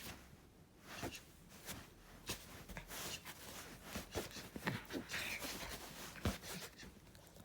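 A puppy playing in a small room: irregular rustling with scattered small taps and soft knocks, several close together in the middle and a sharper knock near the end.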